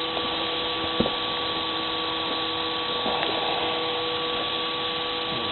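Steady machine hum with an even hiss and a faint click about a second in.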